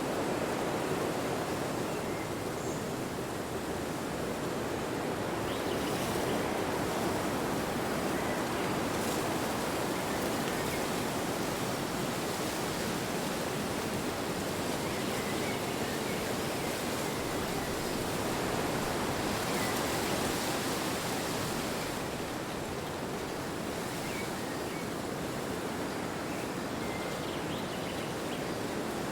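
Wind blowing steadily, a continuous rushing noise that swells in gusts about a quarter of the way in and again past the middle.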